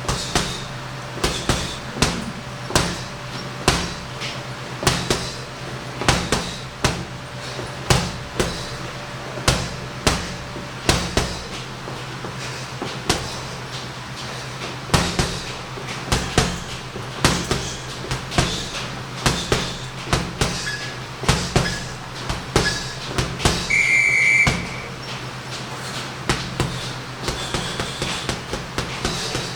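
Punches landing on a heavy boxing bag, sharp thuds at an uneven pace of roughly one to two a second, over a steady low hum. A brief high beep sounds about 24 seconds in.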